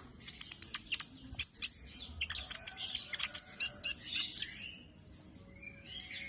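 A songbird chirping: a rapid run of short, sharp high notes that thins out after about four seconds, over a thin steady high trill.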